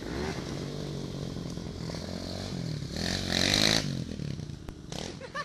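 Pit bike engine revving up and down as it is ridden off-road, loudest for a moment about three seconds in.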